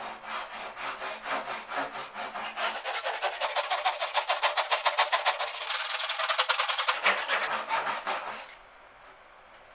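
Hand saw cutting a dovetail in wood, its blade held against a magnetic saw guide. The strokes are steady, grow quicker about three seconds in, and stop near the end.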